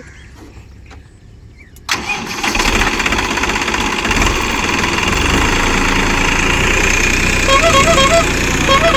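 Massey Ferguson 385 tractor's diesel engine starting about two seconds in, then running steadily. Short repeated chirping tones sound over it near the end.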